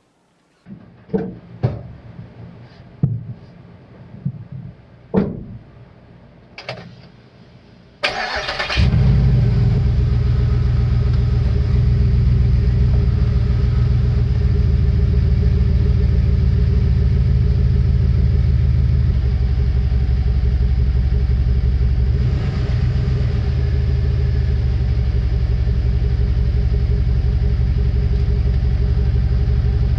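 A few scattered knocks and clicks, then about eight seconds in a V8 engine starts and catches at once, settling into a steady idle.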